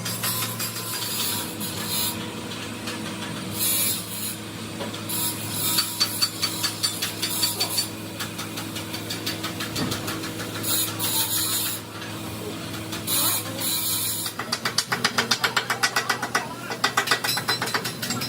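Workshop machinery running with a steady low hum, with clicking throughout and a few short bursts of hiss; the clicking turns into a fast, rapid rattle near the end.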